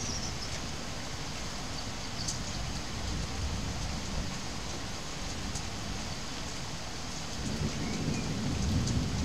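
Steady rain falling: an even hiss with a few faint sharp drop ticks. A low rumble swells near the end.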